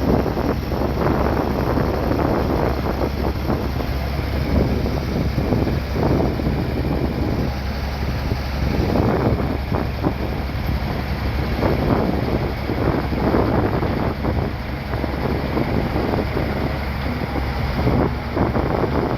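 Bulldozer engine running steadily, with wind buffeting the microphone in irregular gusts.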